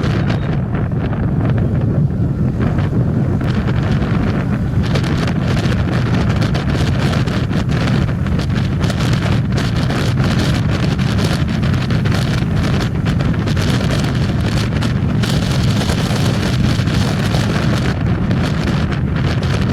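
Wind buffeting the microphone on a moving motorcycle, a steady low rumble with irregular gusts, with the bike's running and road noise underneath.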